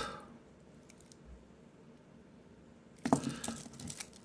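A short cluster of small metallic clicks and clinks about three seconds in, lasting about a second: the metal bracelet of a Seiko Lordmatic wristwatch being handled.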